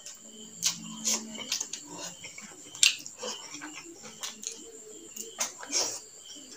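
Close-miked eating sounds: wet chewing and lip-smacking clicks as rice and curry are eaten by hand, coming irregularly several times a second. A steady high-pitched tone runs behind them.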